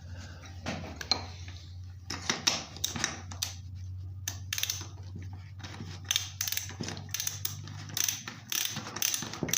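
Quick, irregular metallic clicking and rattling of a tool working on a small two-stroke chainsaw's engine as its spark plug is threaded back in, over a low steady hum.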